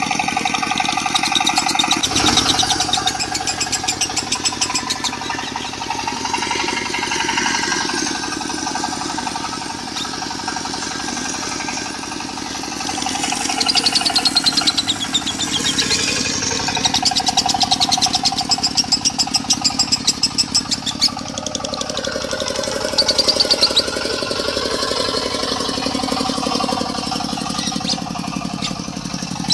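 Lovebird singing in the konslet style, long rapid chattering trills, over a diesel engine idling with a fast, even knock. The trills come loudest in bursts a little past the middle.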